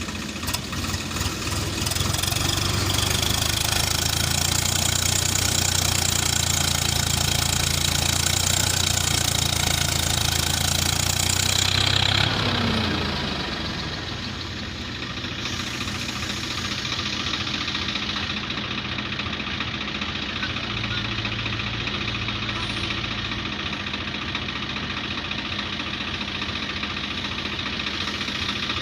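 Diesel engine of a backhoe loader at work: running hard and loud for about twelve seconds, then its pitch falls and it settles to a quieter, steady run.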